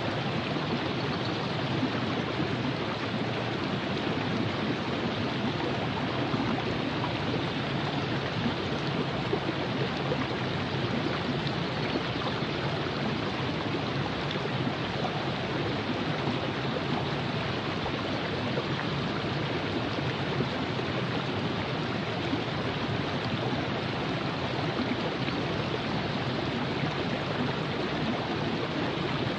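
A shallow river running over rocks: a steady rush and babble of flowing water, even throughout.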